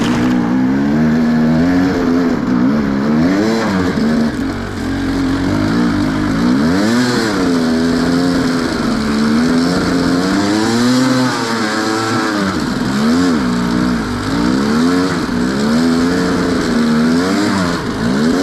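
Enduro dirt bike engine revving up and down again and again as the throttle is worked, the sound of a bike fighting to climb a hill it can't get up.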